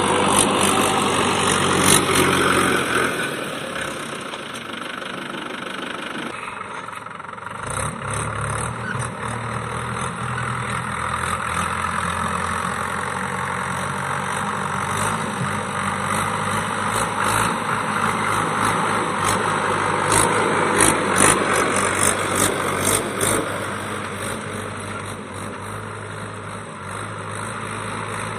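Mahindra tractor's diesel engine running steadily under ploughing load, with rattles from the implement and machine. It eases off a few seconds in and picks back up about seven seconds in.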